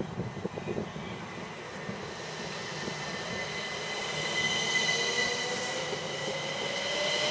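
Class 377 Electrostar electric multiple unit pulling away and accelerating. A few knocks come first, then steady high whines join a motor whine that rises in pitch and grows louder over the second half.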